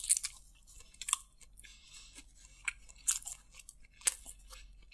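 Close-miked chewing of a mouthful of boneless chicken biryani, heard as irregular short clicks and soft mouth noises.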